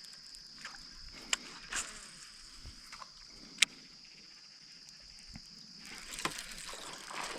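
Insects droning steadily in one high-pitched note, with a few sharp clicks, the loudest about three and a half seconds in.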